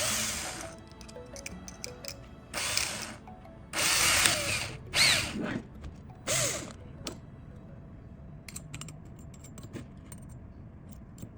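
Knife blade making five short scraping strokes, each about half a second long, at uneven intervals, followed by a few faint clicks near the end.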